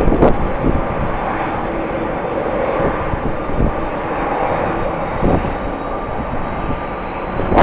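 Jet airliner's engines running, heard across the airfield as a steady rushing noise with a faint high whine. Wind buffets the microphone now and then.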